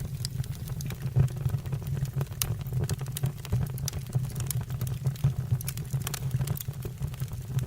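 Wood fire burning in a fireplace: a steady low rumble of flame with frequent, irregular sharp crackles and pops of the burning logs, one of the loudest about a second in.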